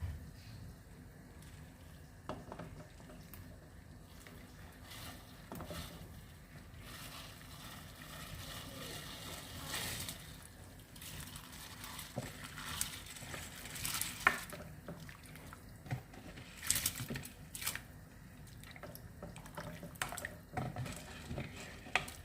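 Rice being tipped into a pot of boiling water, with watery splashing and bubbling and a few sharper knocks scattered through, more of them in the second half.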